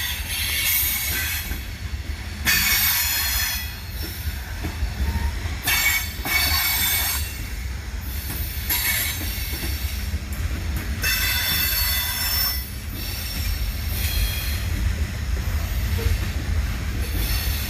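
Freight train of wood chip hopper cars rolling past with a steady low rumble. A high-pitched wheel squeal comes and goes about every two to three seconds, the sound of steel wheels on the rail.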